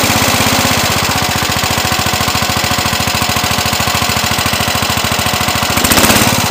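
Cub Cadet 107's Kohler K241A ten-horsepower single-cylinder engine idling steadily with an even, rapid beat, choke fully in, as it warms up after a cold start. A brief louder rush of noise comes about six seconds in.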